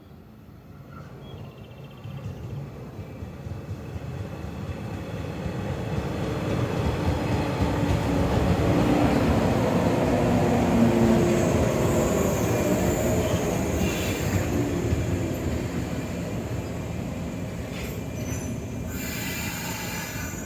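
A train on the line approaches and runs through, its rumble of wheels on rails building to a peak about halfway through and easing off only slightly. Brief high-pitched squeals come from the wheels about two-thirds in and again near the end.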